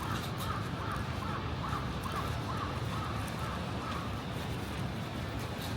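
A bird calling in a quick series of short, repeated calls that stops about four seconds in, over a steady low city street rumble.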